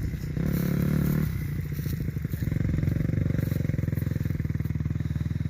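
Kawasaki KX250 dirt bike engine revving up briefly about half a second in, then dropping back and running at a steady, evenly pulsing low speed.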